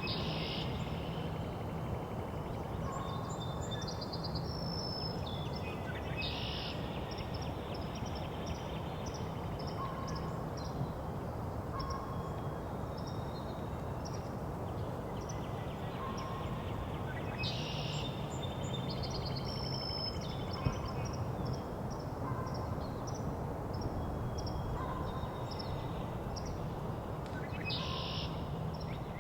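Birds singing over a steady low background rumble. A northern cardinal's song phrase recurs about every ten seconds, with other shorter calls in between.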